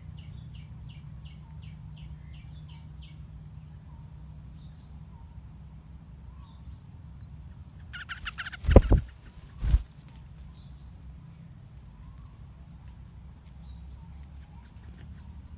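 Small birds chirping: a quick run of short chirps, about four a second, for the first three seconds, then thin high rising chirps repeated near the end, over a steady low hum. Two loud knocks come in the middle.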